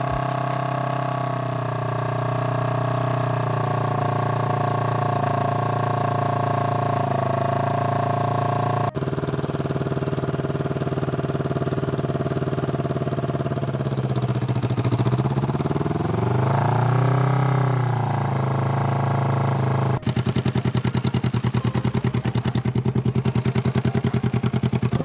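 Kawasaki Ninja 250's parallel-twin engine running freshly after a rebuild, idling healthily. It idles steadily, blips up and back down once near the middle, and idles with a rapid, even pulsing near the end.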